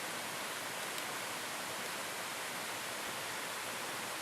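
Steady rushing of a mountain creek's running water.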